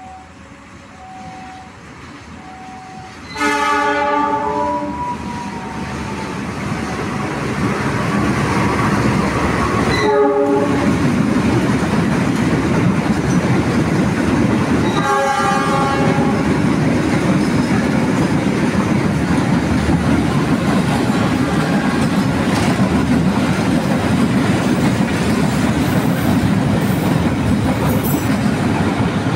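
Diesel locomotive horn blown three times (a long blast, a short one, then another long one), while the freight train of fuel tank wagons comes up and passes close by with a steady loud rumble and clatter of wheels on the rails.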